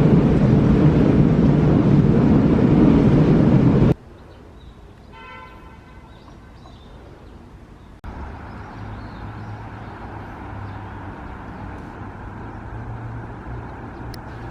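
Loud, steady rumble of a moving train for about four seconds. It cuts to quiet outdoor ambience with a brief tonal beep, then to the steady hum of a vehicle engine.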